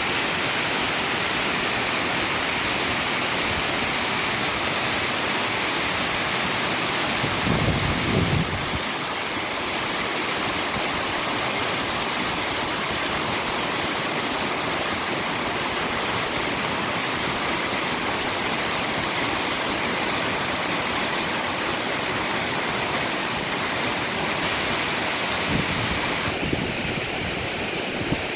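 Waterfall's steady rush of falling water. Two brief low rumbles cut in, about a third of the way in and near the end.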